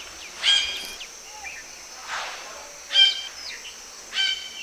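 Red-breasted parakeet calling: four short, harsh calls about a second apart, over a steady high hiss of insects.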